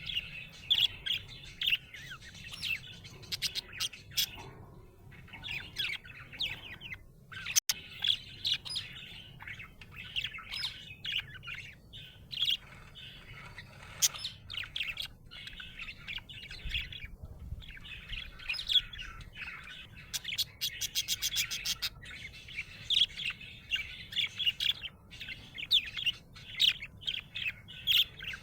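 A budgerigar chirping and warbling in a steady stream of short, quick notes, with a brief rapid clicking run about two-thirds of the way in.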